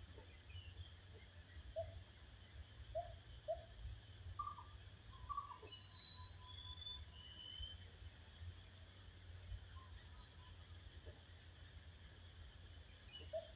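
Wild songbirds calling in forest ambience: short, high whistled notes that slide downward, clustered in the middle, with a few shorter lower chirps. A faint steady insect-like hiss and a low rumble run underneath.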